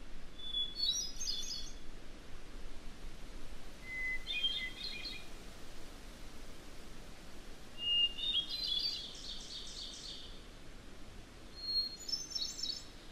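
A songbird singing in a wilderness field recording: four separate phrases, each opening on a held whistled note and breaking into a quick fluttering run of higher notes, each phrase starting at a different pitch.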